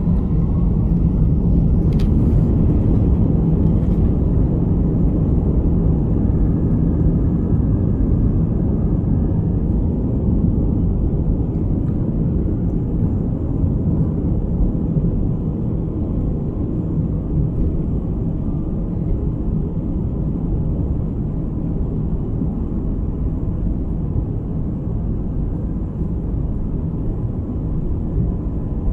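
Steady low rumble of an Airbus A320's engines and airflow heard inside the passenger cabin, easing slightly over the stretch, with a couple of faint clicks a few seconds in.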